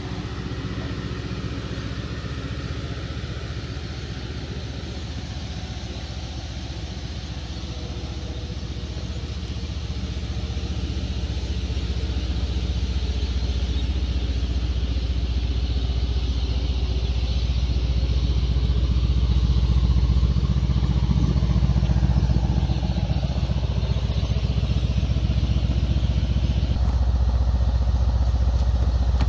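Mercedes-AMG C63 S twin-turbo V8 running while the car is driven: a steady low drone that grows louder over about ten seconds, then holds.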